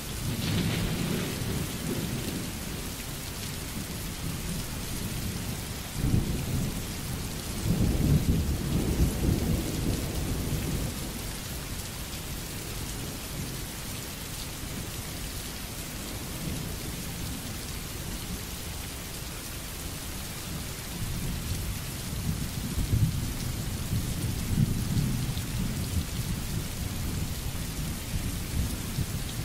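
Steady rain falling, with rolling thunder rumbling at the start, again for several seconds a quarter of the way in, and once more through the last third.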